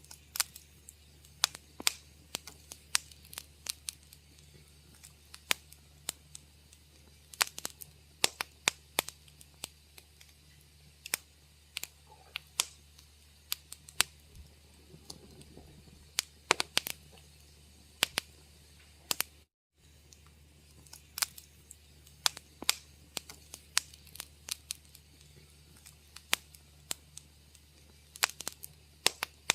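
Wood fire crackling: irregular sharp pops and snaps, several a second at times, over a low steady hum. The sound cuts out completely for a moment about twenty seconds in.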